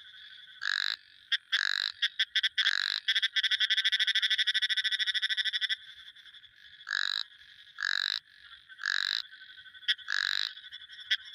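Frogs calling: short, loud calls repeated about a second apart, with a fast pulsed trill running for a few seconds in the middle, over a steady background chorus.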